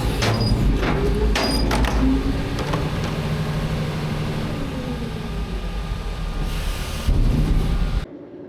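Front-load garbage truck running with a heavy low rumble, sharp metal clanks in the first second or so and a faint whine that slowly shifts in pitch. The rumble swells about seven seconds in, then cuts off suddenly.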